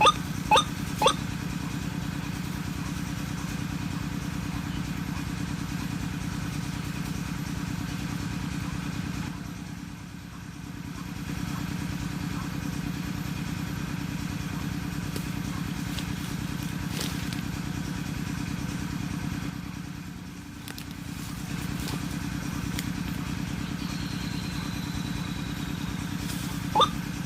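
A steady low mechanical drone, like a small engine running, that eases off briefly twice.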